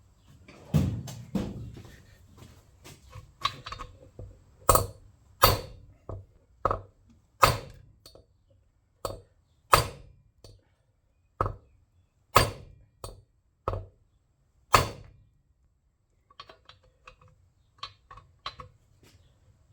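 Repeated sharp knocks of hammer blows on the flywheel of a seized Tecumseh engine, struck to free it from the crankshaft. There is a short scraping rattle about a second in, then about a dozen heavy single blows roughly a second apart, then lighter, quicker taps near the end.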